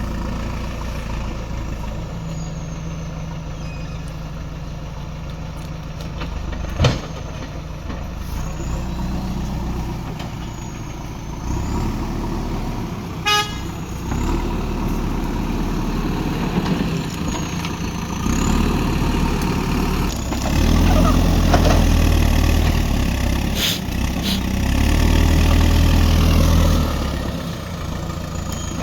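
Diesel engine of a JCB backhoe loader running at work, its revs rising under load in two long stretches in the second half, with a sharp knock about seven seconds in.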